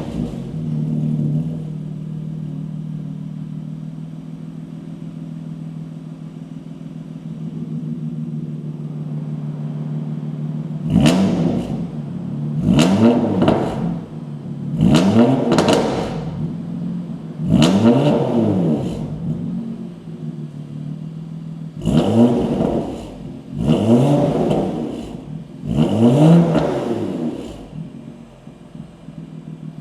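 BMW M2's S55 twin-turbo straight-six, breathing through resonated catless downpipes, a resonated equal-length midpipe and a Remus rear silencer, idling just after start-up. From about a third of the way in it is blipped seven times, each rev rising and falling, then it settles back to idle.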